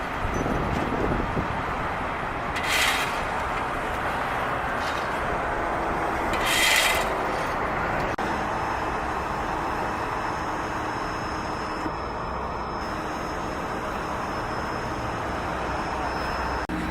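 Steady road-traffic noise from vehicles on a busy street, with two short hisses about three and seven seconds in.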